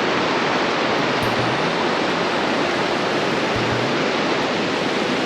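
Steady, loud rush of fast-flowing mountain water, a stream or falls close by.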